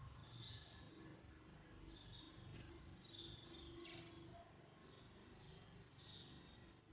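Sparrows chirping faintly: short, high chirps scattered throughout over a low background rumble.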